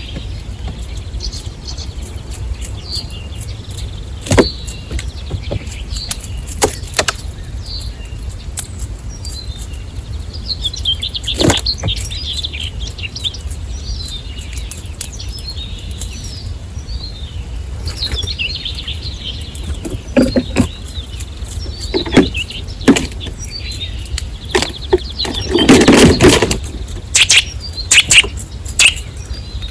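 Small birds chirping and twittering, with scattered sharp taps and one louder rushing burst about three-quarters of the way through.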